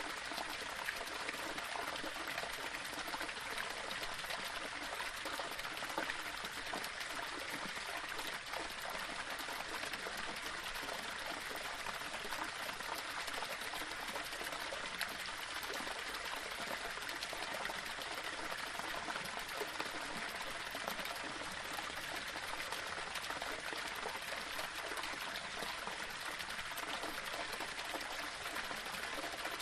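Small waterfall splashing and trickling over rocks, a steady even rush of water.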